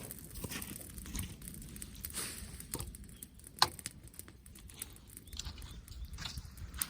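Brushwood bonfire crackling with scattered irregular snaps and one sharp, loud pop about three and a half seconds in.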